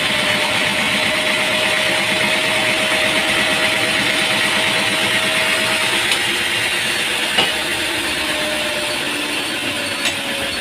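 Machinery engine running steadily with a hissing, even noise over it and a faint tone that slowly drops in pitch, broken by two short sharp knocks.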